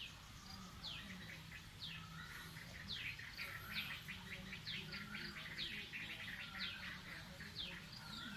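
Birds chirping: a run of short, high notes, each sliding down in pitch, repeated about once or twice a second.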